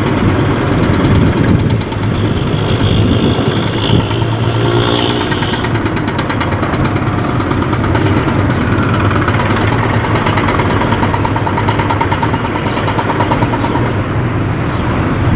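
Steady engine rumble of a running vehicle, a continuous low hum with no pauses.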